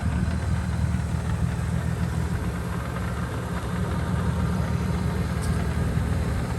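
Engine of a big-turbo car idling steadily, which sounds crazy.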